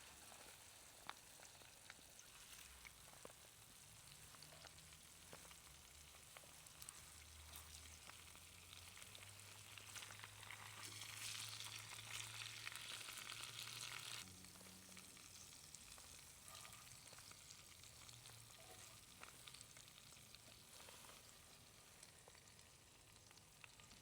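Chicken wings sizzling quietly over a campfire: a steady high hiss dotted with small crackles, getting louder for a few seconds around the middle.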